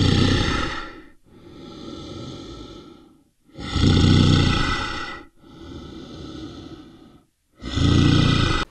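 An animal's heavy breathing: loud exhales and quieter inhales taking turns, about five breaths in all, each around one and a half to two seconds long.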